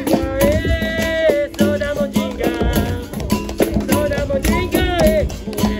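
Live capoeira roda music: voices singing a chant over a berimbau with its caxixi rattle and steady hand percussion.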